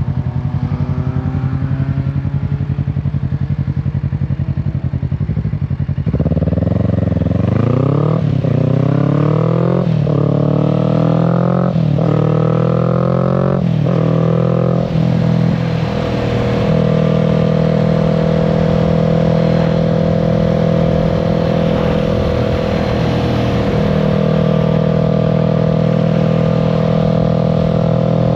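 Kawasaki Z650's parallel-twin engine running at low revs, then accelerating hard through several quick upshifts: the revs climb and drop back at each shift. It then settles into a steady cruise for the second half.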